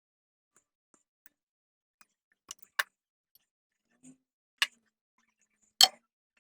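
A few sharp clicks and clacks of hand tools and parts being handled while new copper battery cable ends are fitted, with faint ticks between; the loudest click comes near the end.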